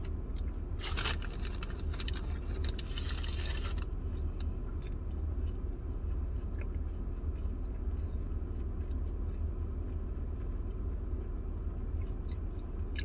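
A person chewing waffle fries dipped in ketchup, close to the microphone, with soft wet mouth clicks. Two short crackling bursts come in the first four seconds. A steady low hum runs underneath.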